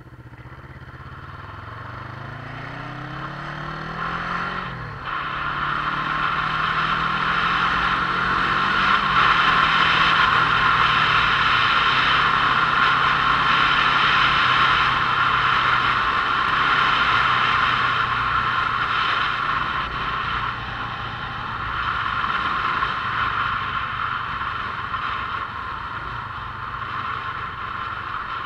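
Motorcycle engine accelerating, its pitch rising, dropping at a gear change about five seconds in, climbing again through the next gear, then holding steady at cruising speed. A loud rushing noise builds with the speed.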